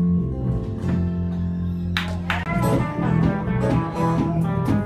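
Live blues band playing an instrumental break between sung lines: guitar over steady bass notes, with a sharp accent about two seconds in, then a run of quick guitar notes with string bends.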